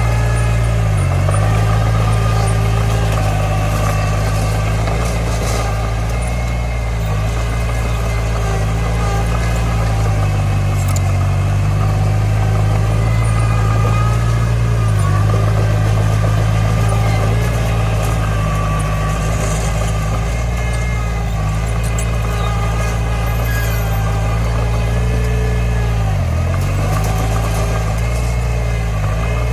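Komatsu D20 bulldozer's diesel engine running steadily, its note sagging briefly a few times as the load changes.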